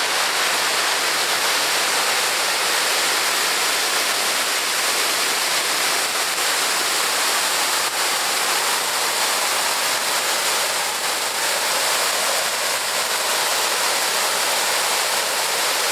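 Waterfall crashing down, a loud, steady rush of falling water.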